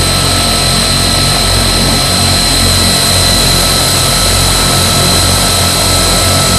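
Two Rolls-Royce Tyne turboprop engines of a Vickers Vanguard airliner running at a steady setting during a ground run: a loud, even mix of high turbine whine over a low, pulsing propeller beat.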